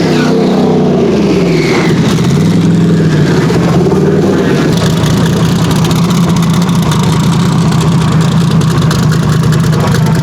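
Twin-turbo drag-racing car engine blipped up and down for about two seconds, then settling into a steady, loud idle.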